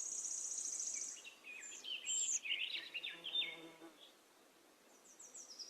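Birds singing: a fast, high trill at first, then a run of short whistled notes that slide up and down, and the trill again near the end.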